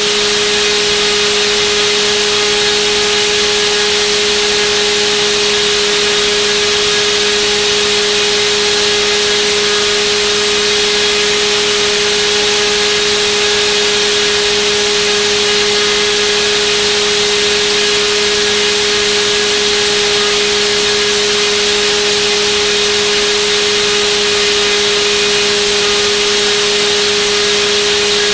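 Turnigy D2826/10 1400kV brushless outrunner motor spinning a propeller on a thrust test, held at one steady speed. It makes a steady whine of constant pitch over the rushing air of the prop wash.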